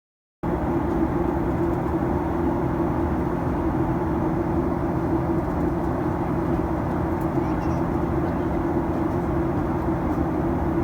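Steady low drone of a vehicle in motion, cutting in suddenly about half a second in and holding even throughout, with a strong low hum under a rushing noise.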